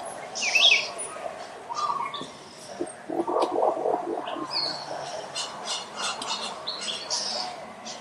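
Wild birds chirping and calling: short high chirps and whistles, the loudest a quick warbled phrase about half a second in, with a lower, rapid run of notes about three seconds in.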